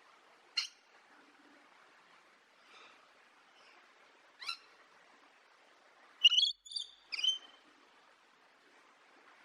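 Parrot calls, short and sharp: one about half a second in, another near the middle, then a quick run of three louder calls near the end, over a faint steady hiss.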